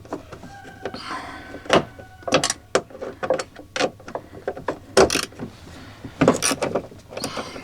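Irregular metallic clicks and clinks of a socket wrench with a short extension working the 10 mm nuts of a door check strap inside a car door, about a dozen sharp knocks spread unevenly.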